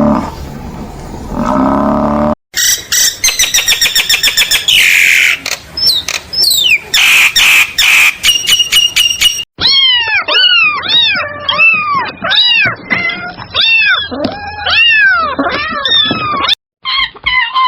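A series of different animal calls cut one after another: a low pitched call, then rapid clicking mixed with high chirps, then a long run of high arching chirps, several a second.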